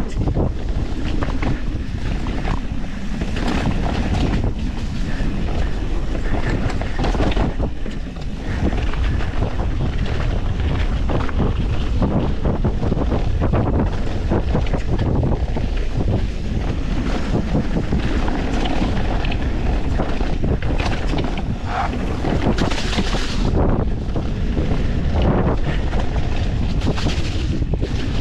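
Wind buffeting an action camera's microphone as a YT Industries Capra mountain bike rolls fast down a rough trail, with steady tyre rumble and scattered knocks and rattles from the bike over rocks and roots.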